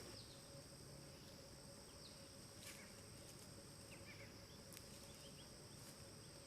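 Faint woodland ambience, near silence: a steady high-pitched insect drone of crickets, with a few faint bird chirps.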